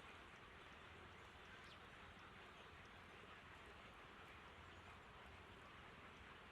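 Near silence: a faint steady hiss with a low hum, and one or two faint high chirps.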